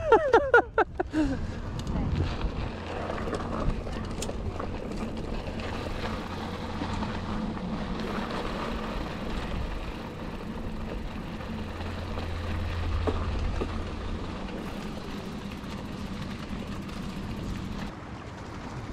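A motor vehicle's engine hum, steady and low, swelling near the middle and fading after about fourteen seconds, over outdoor wind and background noise; a brief voice right at the start.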